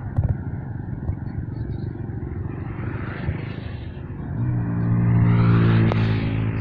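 Mercedes-Benz Actros MP4 truck's diesel engine droning as it approaches and passes close, building about four seconds in and loudest near the end, over a steady rumble of road noise.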